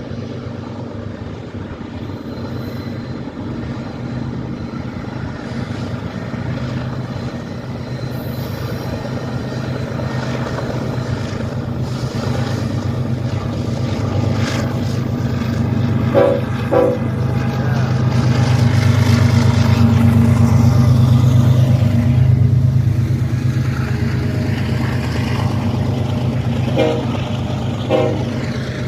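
Train's diesel locomotives rumbling as it comes through, growing louder to a peak about two-thirds of the way in and then easing off. Short blips of the horn come twice in the middle and twice near the end.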